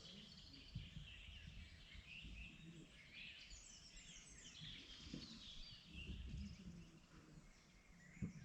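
Faint spring dawn chorus: several songbirds singing at once, with many short overlapping chirps and trills, over occasional low rumbles.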